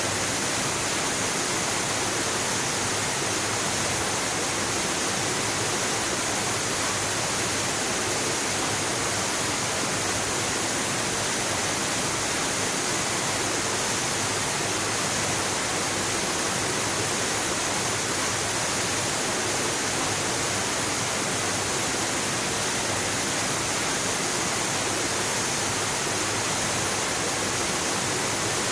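Waterfall: the steady, unbroken rush of falling water, even in level throughout.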